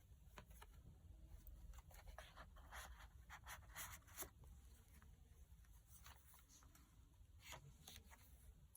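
Faint rustling and soft crackles of paper pages being handled and turned, in scattered clusters.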